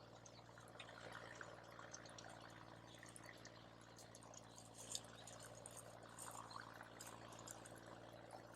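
Wood campfire crackling faintly, with scattered small pops and one sharper crack about five seconds in, over a low steady hum.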